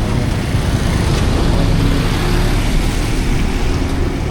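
Street traffic: a motor vehicle's engine running close by, a steady low rumble over general street noise.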